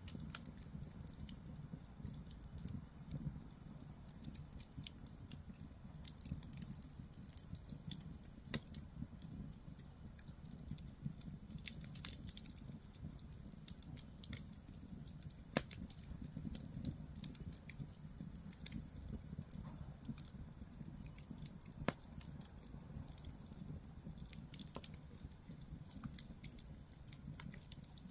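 Firewood fire burning: irregular sharp crackles and pops from the burning logs over a low steady rumble of flame.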